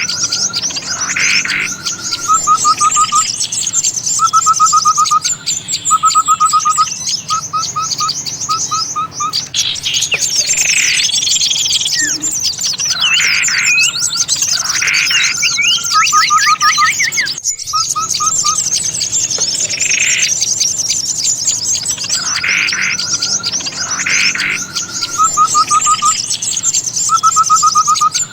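Bird-lure recording: a dense, agitated chorus of small songbirds chattering and calling, with a short, even trill repeating in bursts of about a second. The mix breaks off briefly about two-thirds of the way through and starts over, as a loop.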